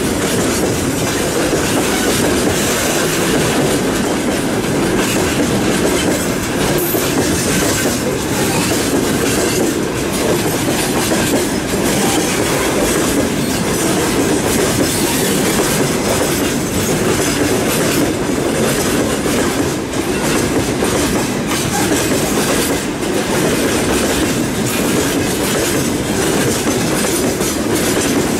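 Freight train of open-top gondola wagons rolling past close by as it departs: a steady, loud rumble and clatter of steel wheels on the rails.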